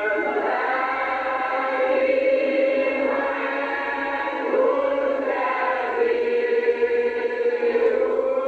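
A congregation singing a hymn together, many voices holding long notes.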